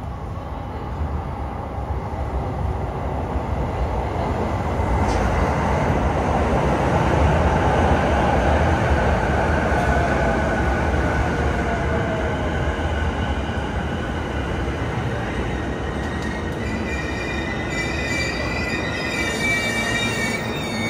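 JR East E233-series electric commuter train arriving at a station platform and slowing to a stop: steady wheel-and-rail rumble, a whine from the traction motors falling in pitch as the train brakes, then high squealing from the wheels and brakes near the end as it comes to rest.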